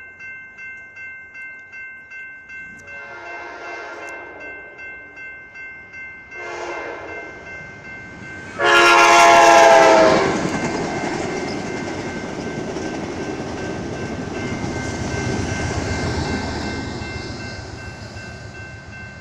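Railroad crossing bell ringing about twice a second while an Amtrak Cascades Talgo train's horn sounds three times for the grade crossing, the last blast long and loudest. The train then passes with a broad rumble of wheels on rail that swells and fades near the end.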